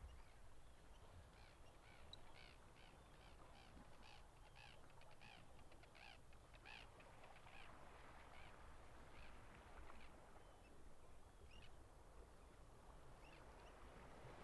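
Faint bird calls: a quick run of short repeated notes, about two or three a second, for several seconds, then a few scattered single calls, over a quiet low background.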